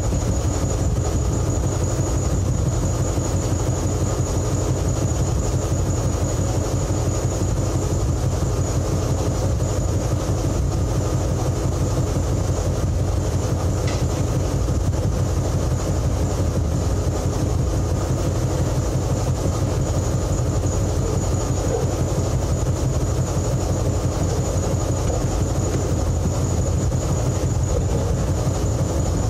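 An engine running steadily at a constant speed with a fast, even pulse and a thin high whine on top.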